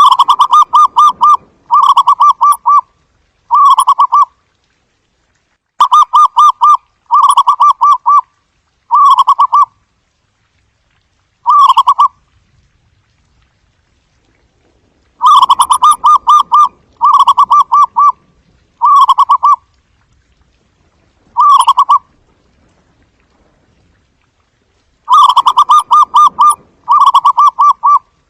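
Zebra dove's staccato cooing call: bursts of rapid trilled coos, each about a second long, in strings of three or four, with pauses of a few seconds between strings.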